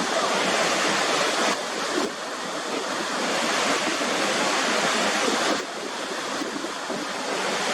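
Waterfall rushing as a steady, loud roar of falling water. Its level and colour change abruptly twice, about a second and a half in and again past the middle.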